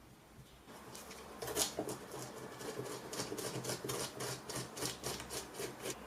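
Rapid back-and-forth scraping or rubbing strokes, about four to five a second, starting about a second in and continuing steadily, like a file, abrasive or brush worked by hand against a hard part.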